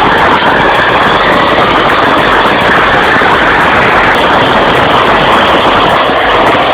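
Bulldozer's diesel engine running steadily and loudly.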